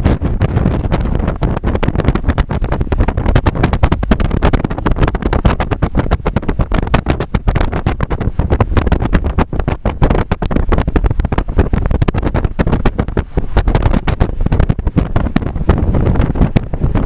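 Strong gusting north wind hitting the microphone: a loud, continuous rumble with rapid, uneven buffeting.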